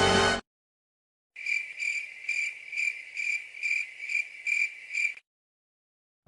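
A music clip cuts off suddenly, and after a short silence a cricket chirps in an even rhythm, about two chirps a second, a high repeated trill that stops after about four seconds. It is the stock cricket sound effect used to mark an awkward silence.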